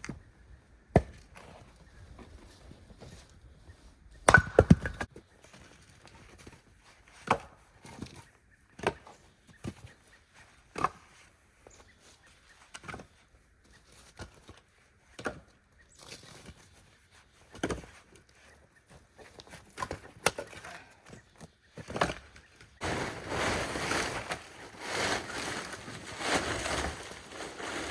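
Wood being chopped: single sharp strikes about every two seconds, with a quick run of blows about four seconds in. The wood is wet and iced from an ice storm. Near the end a steady rough rustling noise takes over.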